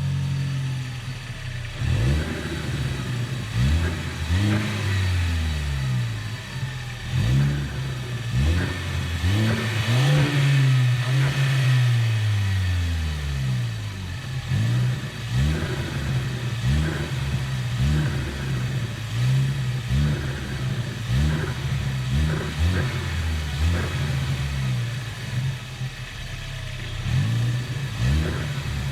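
Ford Focus ST's turbocharged engine revved in repeated quick throttle blips, with one longer rev near the middle. Its Go Fast Bits DV+ diverter valve is set four turns out on the centre screw to let the turbo flutter when the throttle is lifted.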